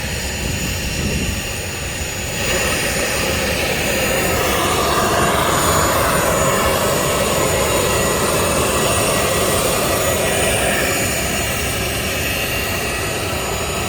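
Jet engines of a Boeing 737-900 taxiing past, a steady whine and rush. It swells from about two seconds in, is loudest midway and eases slightly near the end.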